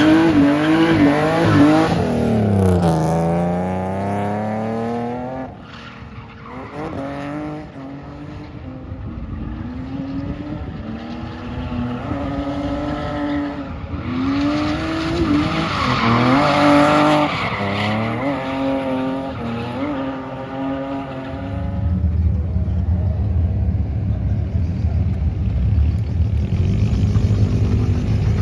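A drift car's engine revving up and down over and over as it slides, with tyre squeal. About two-thirds of the way through this gives way to a steady low engine rumble close by.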